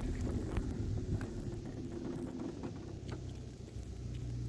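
Vehicle engine running steadily with a low rumble while driving, with a few faint knocks and rattles over it.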